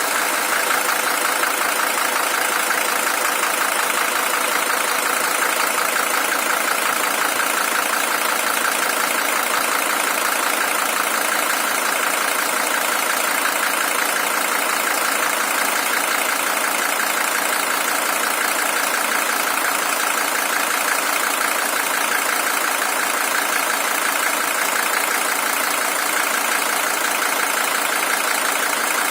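Mercedes-Benz W123 300TD's OM617 five-cylinder diesel engine idling steadily, a high-mileage original engine with 620,000 km on it.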